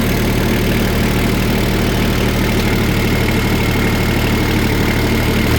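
Kioti LK3054 tractor's diesel engine idling steadily just after a cold morning start, with a faint high whine over the low, even engine hum.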